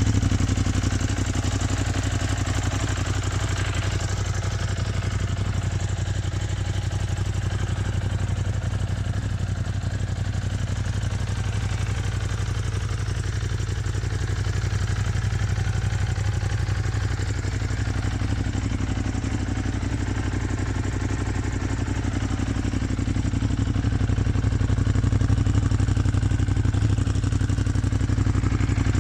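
Ducati Monster 821's L-twin engine idling steadily.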